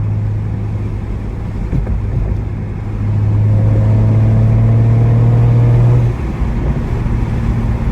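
BMW 335i's N54 inline-six, fitted with a Doc Race single-turbo kit, running at highway speed. It pulls harder and louder from about three seconds in, then eases off again about six seconds in.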